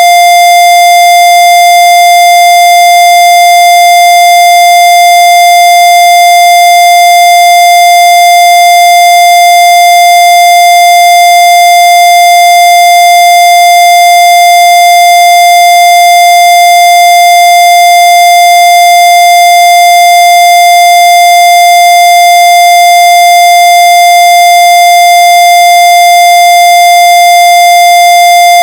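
Loud, steady electronic tone held at one unchanging pitch, with fainter overtones above it.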